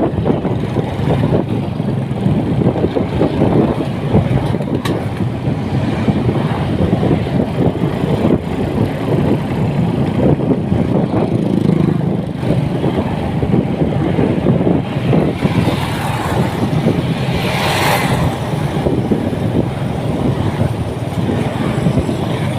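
Motorcycle riding noise: a steady mix of engine, tyre and wind noise on the rider's microphone. A short, brighter hiss is heard about three-quarters of the way through.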